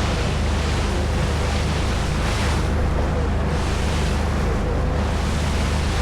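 A small boat's engine running steadily under way, with water rushing past the hull and wind buffeting the microphone in swells.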